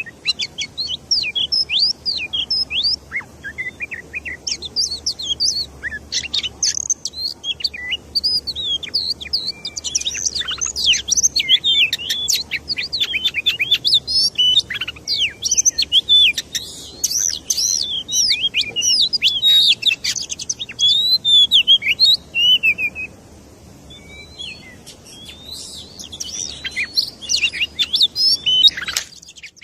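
Small birds chirping and twittering densely, many quick rising and falling notes overlapping. The calling thins out for a couple of seconds about three-quarters of the way through, then picks up again.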